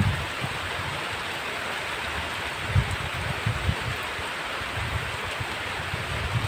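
Heavy rain falling in a steady hiss, with short, irregular low rumbles coming and going underneath.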